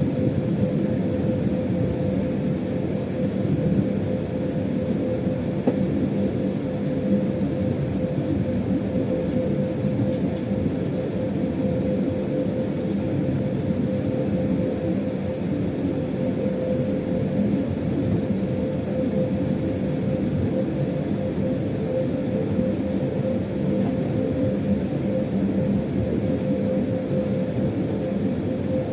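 Freight train running steadily, heard from inside the locomotive's driver's cab: a continuous rumble with a steady hum over it.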